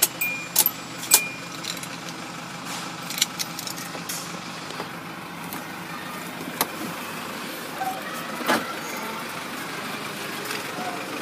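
Hyundai Starex turbo-diesel engine idling steadily, kept running by the turbo timer after the ignition key is turned off. Sharp clicks and key jingling sound in the first second or so, the loudest about a second in, with a few scattered clicks later.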